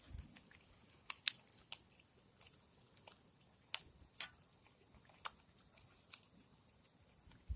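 Shellcracker fillets deep-frying in hot grease in a frying pan: a faint steady high sizzle broken by about a dozen sharp, irregular pops and crackles.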